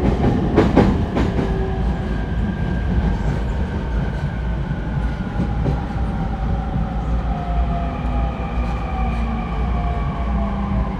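Cabin running sound of a renewed JR East E231-1000 series EMU: the traction motors and inverter whine in several tones that slide slowly down in pitch as the train slows, over a steady rumble of wheels on rail. Near the start, a quick run of clicks as the wheels cross rail joints.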